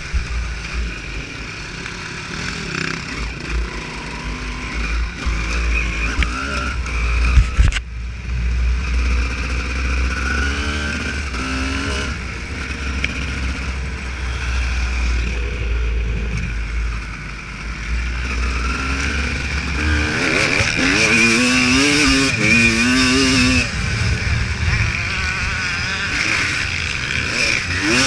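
Honda CR250 two-stroke motocross bike riding off-road, its single-cylinder engine revving up and down. A livelier run of rising and falling revs comes about twenty seconds in.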